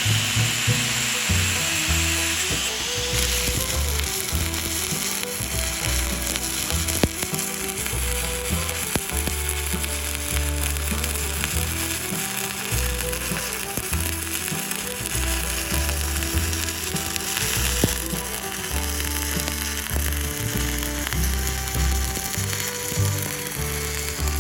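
Stick-welding arc with a 7018 rod, a steady frying crackle, a little stronger in the first few seconds, over background music.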